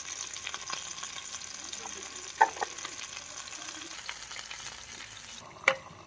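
Food frying in a pan on a portable gas cartridge camping stove: a steady sizzle with small crackles and spits, and two sharper clicks, about two and a half seconds in and near the end.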